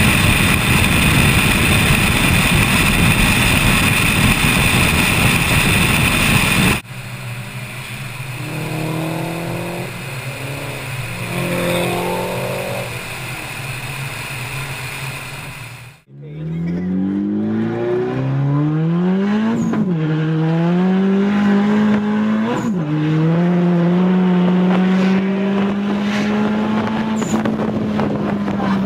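Turbocharged four-cylinder Mazdaspeed3 on the highway. A loud steady rush of wind and road noise comes first, then the engine running at cruise. From the middle on, heard inside the cabin, the engine pulls hard: its pitch climbs, drops sharply at two upshifts and climbs again.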